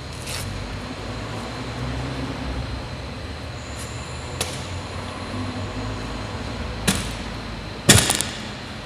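Steady low rumble with a few sharp clicks and knocks spread through, the loudest a short cluster of knocks near the end.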